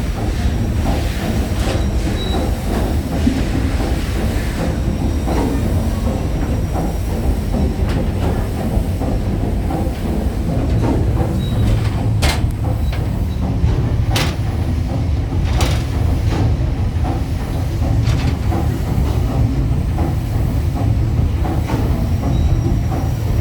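Paddle steamer Waverley's steam engine and paddle drive running under way: a steady, loud, rhythmic rumble and clatter, with a few sharp knocks near the middle.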